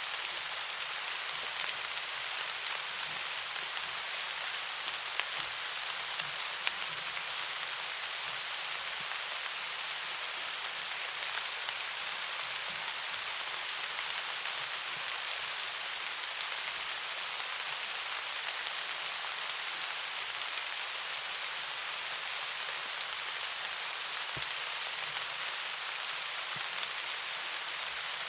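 Steady rain falling, an even hiss with a few scattered louder drop ticks.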